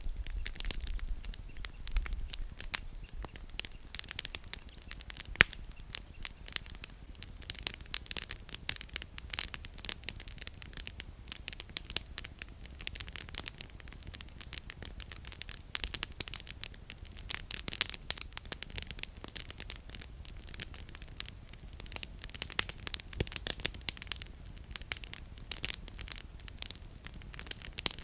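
Campfire with firewood burning and crackling, a dense run of irregular sharp pops and snaps over a faint steady low rumble.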